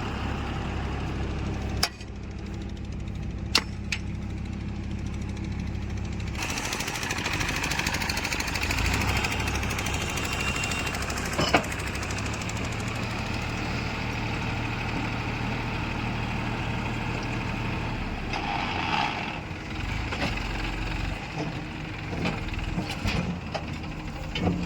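Diesel engines of a backhoe loader and tractors running steadily, with a few sharp knocks. The sound changes abruptly about six seconds in.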